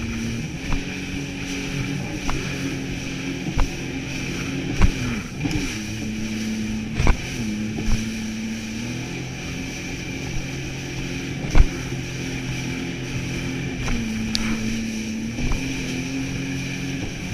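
Jet ski engine running steadily at speed, its pitch dropping and rising again several times with the throttle, with the hull thumping over waves now and then, one thump much louder than the rest late on.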